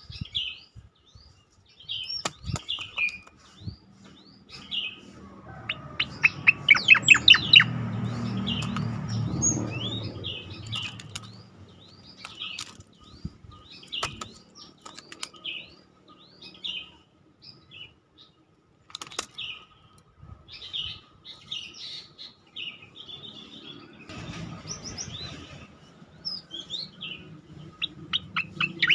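Cicakoreng (striated grassbird) singing: a continuous string of short chirps and whistles, with a fast volley of sharp descending notes about six to eight seconds in. A low rumble runs under the song in the middle and again near the end.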